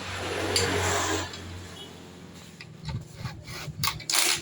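Scraping and rubbing, like a tool worked over a part, for about the first second, then a few light clicks and a short, loud scrape near the end.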